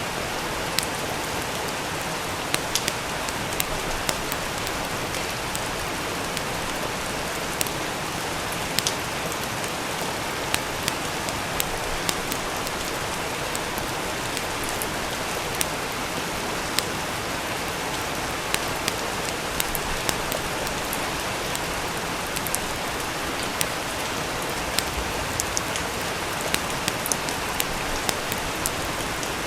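Steady rain hissing, with scattered sharp pops and crackles of a wood fire burning in a fireplace.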